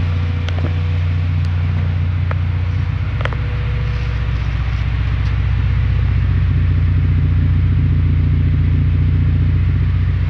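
Honda B18C6 1.8-litre four-cylinder VTEC engine in a Civic idling steadily, heard at the exhaust tailpipe, with a few faint clicks.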